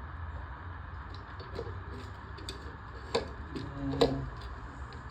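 Small metal clicks and taps of lawnmower carburetor linkage rods and parts being handled and fitted back on the carburetor, with two sharper knocks about three and four seconds in, over a steady low hum.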